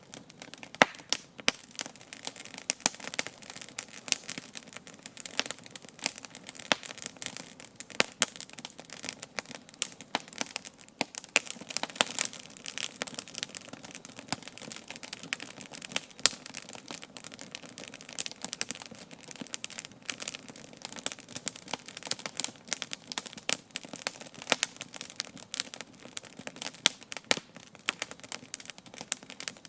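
Wood campfire crackling, with many irregular sharp pops and snaps over a low, steady hiss from the flames.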